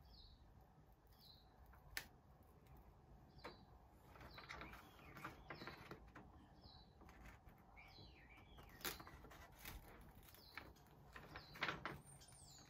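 Faint, repeated short bird chirps, about one a second, some arching calls among them. Under them, soft rustling and a few light clicks as the plastic backing of an iron-on transfer is peeled from a T-shirt.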